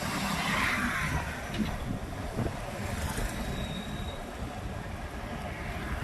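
City road traffic heard from a moving motorbike: its engine running under a steady rumble of traffic noise, with a brief louder swell about half a second in.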